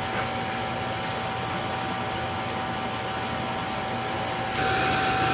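Beckett oil burner running with a rushing noise and a steady high-pitched whine. The technician takes the whine for a bad fuel pump. A little before the end the sound gets louder and a second, higher whine joins in.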